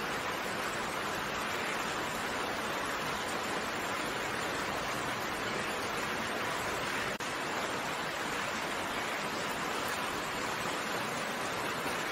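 Steady, even hiss of heavy rain falling, with a momentary dropout about seven seconds in.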